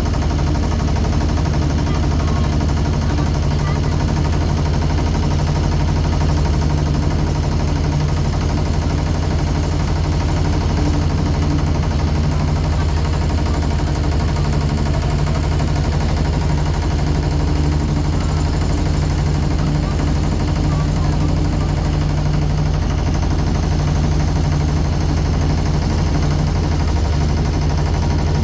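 Motorboat engine running steadily at an even speed, a constant low drone.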